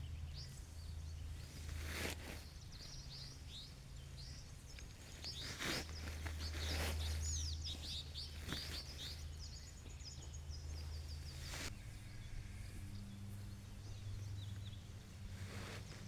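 Small birds chirping and twittering over a low steady hum, with a few brief knocks or rustles spread through.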